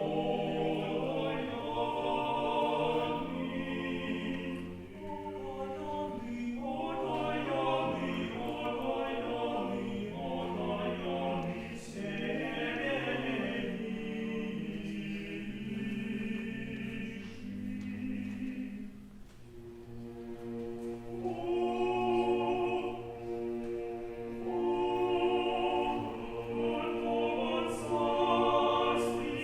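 Choir singing Old Russian music in long held chords over a low sustained bass, with a brief quieter moment about two-thirds of the way through.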